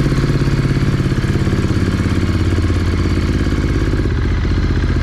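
2023 Ducati Monster 937's L-twin engine running, its pitch shifting about a second in and again near four seconds.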